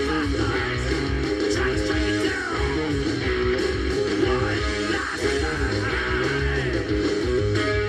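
Stoner-metal band recording: an electric guitar riff repeating over bass and drums.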